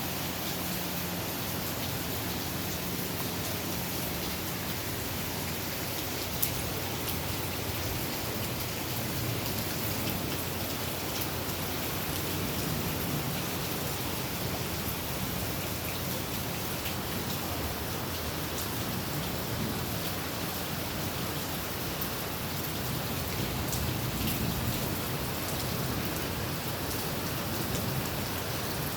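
Heavy rain pouring steadily, a dense, even hiss of drops on surfaces, with one sharp tap about six seconds in.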